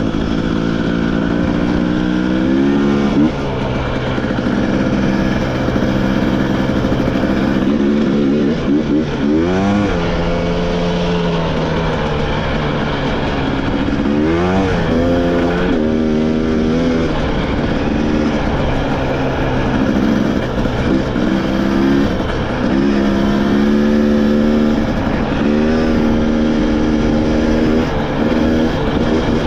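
Motorcycle engine on a trail ride, holding steady revs for stretches and rising and falling sharply with the throttle a couple of times, over rushing noise.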